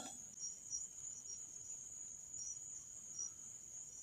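Crickets chirping faintly: a steady high-pitched trill with a few short, brighter chirps here and there.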